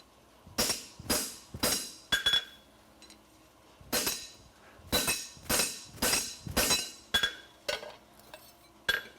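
Hammer blows on a thick steel horseshoe being shaped over the anvil horn: about a dozen sharp strikes in quick groups, with a pause of over a second after the first few. Several blows ring on with a clear metallic tone.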